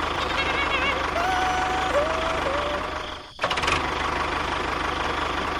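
A small engine running steadily with a fast, even pulse, dropping out abruptly for a moment a little past the middle and then running on. Faint wavering and held tones sound over it in the first half.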